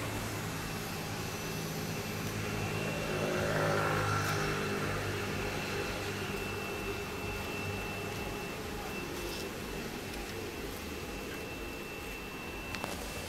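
Honda Civic EP1's engine idling steadily with a low, even hum. A louder rushing sound swells and fades about four seconds in.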